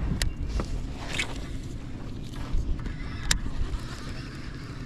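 Gear and handling noise on a fishing kayak: a steady low rumble with two sharp clicks about three seconds apart and a brief swish about a second in.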